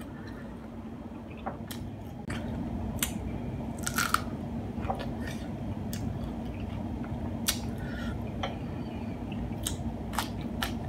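A person chewing and biting food close to the microphone, with scattered short crunchy clicks over a steady low hum.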